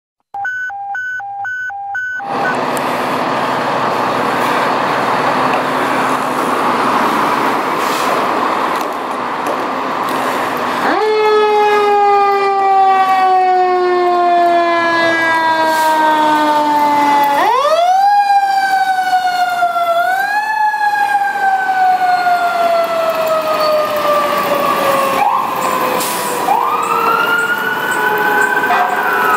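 Federal Q2B mechanical fire siren wound up again and again: each time its pitch climbs quickly, then coasts slowly down as the rotor spins down, about four times. Before it comes a quick pulsed beeping, then a loud rushing noise.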